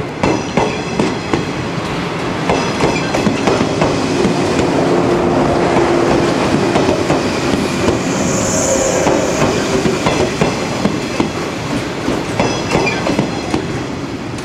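Yellow JR West 115 series electric multiple unit passing close by, its wheels clicking steadily over the rail joints under a continuous rumble, with a brief high hiss about halfway through.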